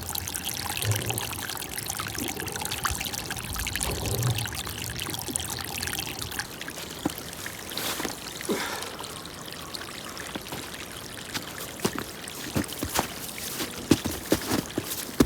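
Running water, a steady trickling pour, with scattered sharp clicks and knocks in the second half.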